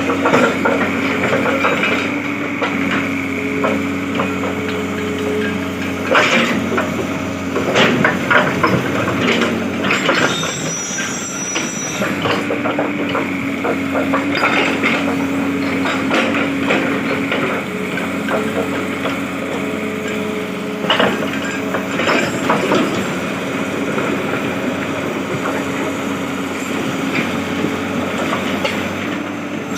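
Hitachi 200-class hydraulic excavator's diesel engine running steadily, with irregular cracks, knocks and clatter of hard rock being broken and moved.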